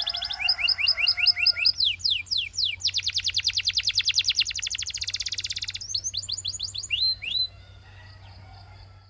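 Canary singing rapid trills. Rolls of quick rising whistled notes give way to a few steep falling sweeps, then a very fast, even roll about three seconds in. The song breaks off about seven and a half seconds in, leaving a faint low hum.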